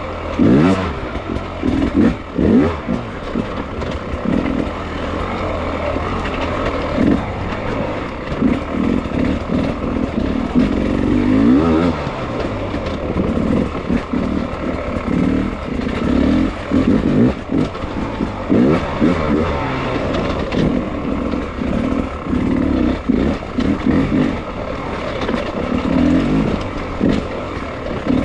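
Beta hard enduro dirt bike engine ridden over rough terrain, revving up and down in short throttle bursts every second or two, its pitch rising and falling constantly.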